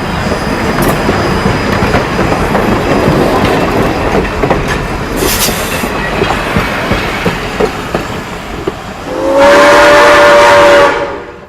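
Steam train hauled by 100-year-old locomotive No. 15 rolling along with a steady rumble and clatter of wheels on rail, with a brief hiss about five seconds in. Near the end, one long blast of the locomotive's steam whistle, the loudest sound, lasting about two seconds.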